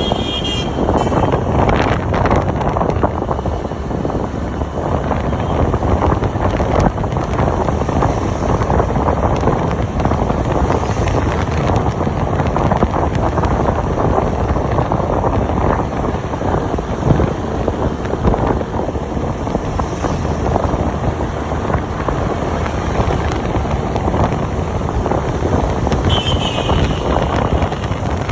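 Steady, loud rumble of city traffic with wind buffeting the microphone, and a vehicle horn sounding briefly at the start and again near the end.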